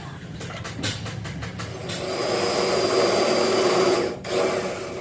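Scattered clicks and knocks, then a power tool runs steadily for about two seconds, cuts off suddenly, and gives one more short burst.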